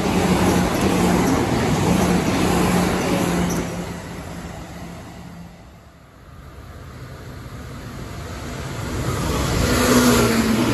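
Meitetsu electric trains passing close by: the rumble of one train with a steady low hum fades away over the first few seconds, then another train approaches and passes, growing louder toward the end with a few steady motor tones.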